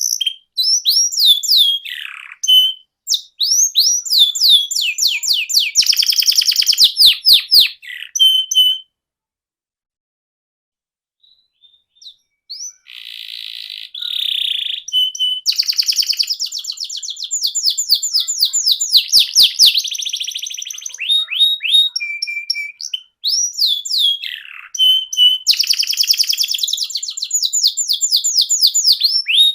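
Canary singing: long phrases of fast trills and repeated sweeping whistled notes. The song breaks off for about three seconds around nine seconds in, then resumes.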